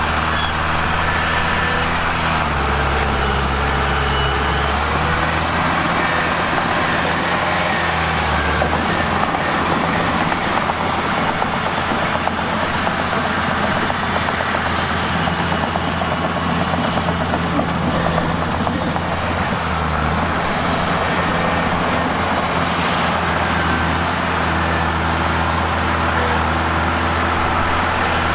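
Mitsubishi crawler bulldozer's diesel engine running steadily, its pitch shifting a few times as it works, with a rougher clattering noise through the middle stretch.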